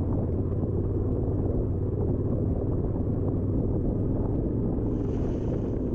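Yamaha Ténéré 700 parallel-twin engine running steadily under way on a dirt trail.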